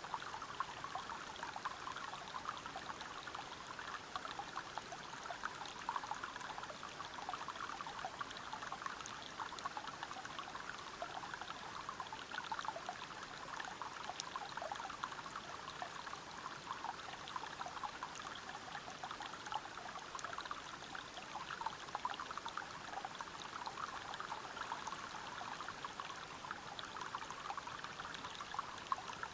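River water running and splashing over rocks by a waterfall: a steady, even rush of water with many small splashes in it.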